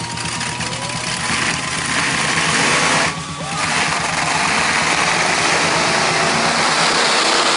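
Monster truck engine running loud, with two short dips in level, about half a second in and about three seconds in.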